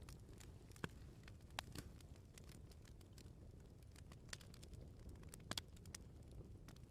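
Wood fire crackling: a low steady rumble of burning with scattered sharp pops and snaps, the strongest a little under a second in, at about a second and a half, and at about five and a half seconds.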